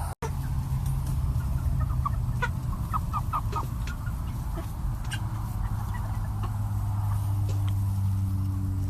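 Chickens clucking, with a quick run of short calls about two to three and a half seconds in, over a steady low hum.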